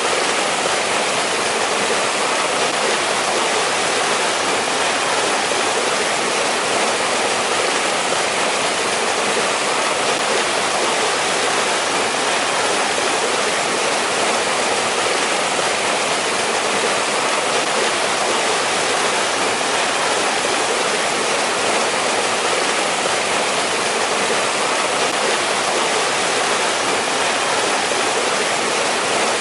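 Mountain stream rushing over rocks: a steady, unbroken splashing and rushing of flowing water.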